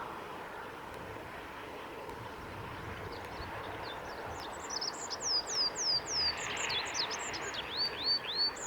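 Olive-backed pipit singing: from about halfway through, a quick run of high notes that slide sharply downward, followed near the end by a lower series of similar down-slurred notes. A steady background hiss runs beneath.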